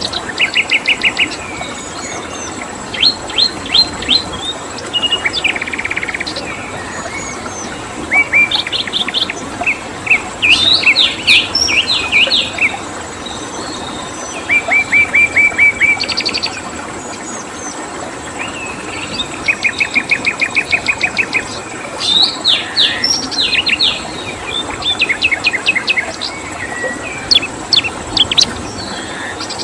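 Songbirds singing short phrases of rapid chirps and trills, repeated every few seconds, over a steady rushing of flowing water.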